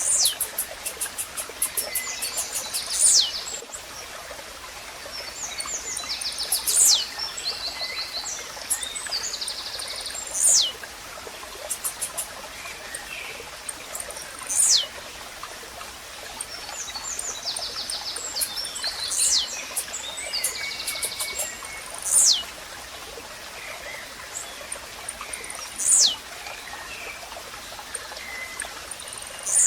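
Blue-black grassquit (tiziu) repeating its short song, a sharp high note sweeping steeply down, about every four seconds. Other birds chirp and trill between its calls over a steady running-stream sound.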